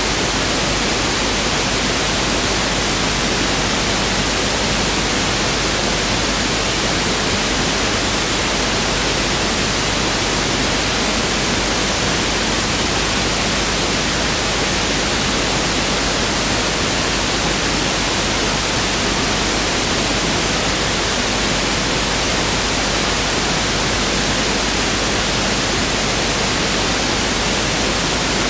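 Pink noise test signal (1/f noise): a steady, even hiss spread across the whole frequency range, unchanging throughout.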